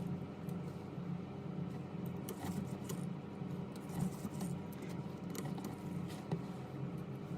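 A steady low electrical hum with scattered small clicks and scratches, like hand tools handling small parts on a workbench.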